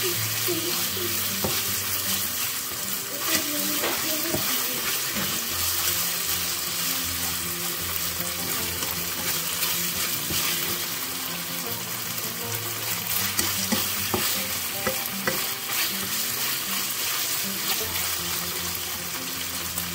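Chicken pieces sizzling as they fry in a nonstick wok and are stirred, with a few light clicks of the utensil against the pan.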